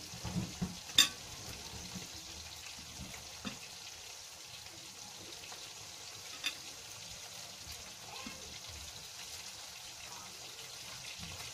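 Oil sizzling steadily in a frying pan as anchovy fritters (tortang dilis) fry, with a sharp tap about a second in and a couple of fainter taps later.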